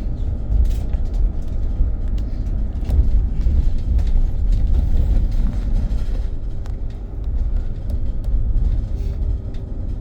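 Cabin sound of a moving BYD BD11 battery-electric double-decker bus: a steady low road and tyre rumble. A faint steady tone comes in twice in the second half.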